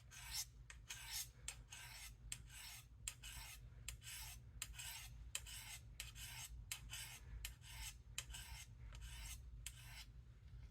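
Case USMC knife's sharpened swedge being honed on ceramic sharpening rods: a steady run of faint scraping strokes, about two a second, which stop near the end.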